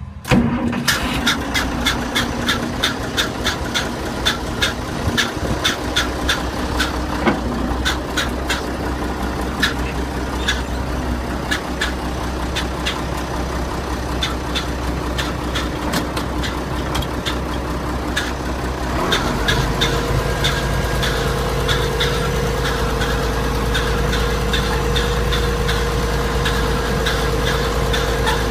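Tractor engine running steadily with a rhythmic ticking clatter a few times a second. About two-thirds of the way through it speeds up and holds at a higher, steady pitch.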